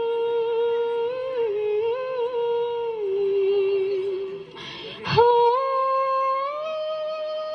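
A woman humming a slow melody alone, long held notes with small ornaments, with a breath taken about four and a half seconds in before the notes rise a little higher.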